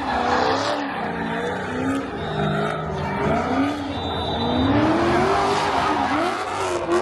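A car engine revving up and down again and again over a thick noise of spinning tyres, as in a burnout.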